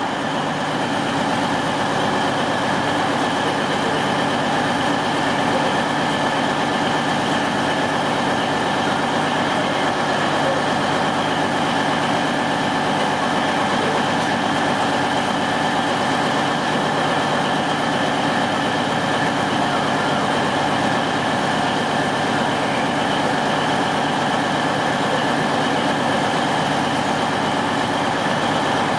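Diesel multiple-unit train engine idling steadily at a platform, a constant hum with several steady tones.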